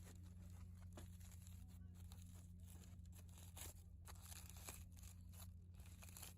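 Faint, irregular crackling and popping of a charcoal cooking fire.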